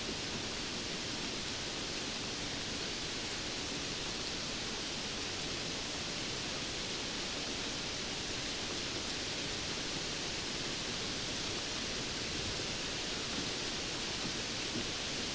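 Steady, even rain: a dense hiss of many drops with no distinct patters or thunder.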